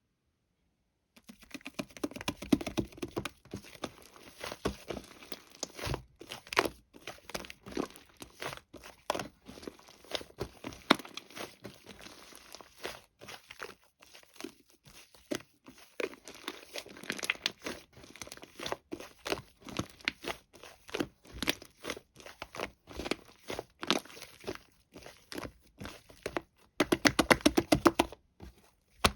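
Sticky slime being squished, pressed and stretched by hand, giving a dense, irregular run of wet clicks, pops and crackles, with a louder burst near the end.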